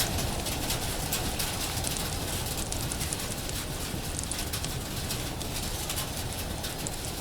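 Steady rain with a wood fire crackling, sharp irregular pops scattered throughout. The whole sound slowly gets quieter.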